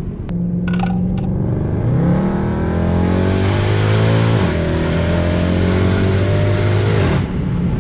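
V8 car engine and exhaust under hard acceleration. The pitch climbs, dips once at a gear change about halfway through, then climbs again until the throttle is lifted near the end.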